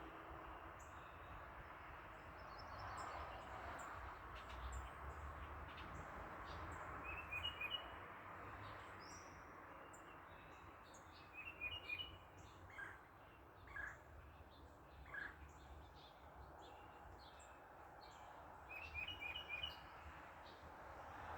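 Small birds chirping: a short run of quick chirps repeats three times, with scattered single chirps, over a faint steady background noise.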